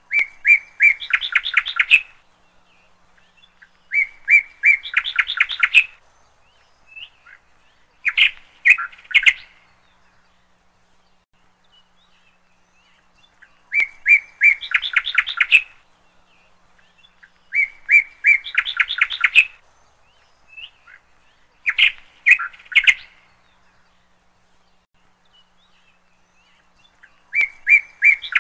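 A small songbird singing short phrases of quick repeated chirping notes, each phrase a second or two long and coming again every few seconds, about seven times.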